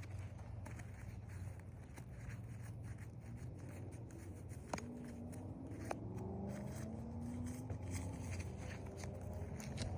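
Light scraping and handling noises from working a roof shingle, with scattered small clicks and two sharper clicks near the middle, over a low steady rumble.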